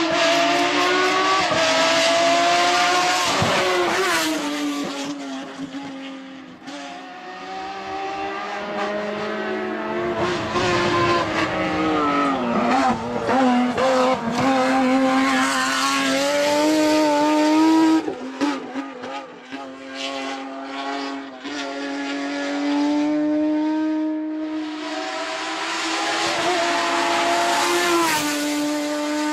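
Renault Mégane V6 Trophy race car's V6 engine driven hard, revving up again and again, with the pitch dropping at each gear change or lift off the throttle.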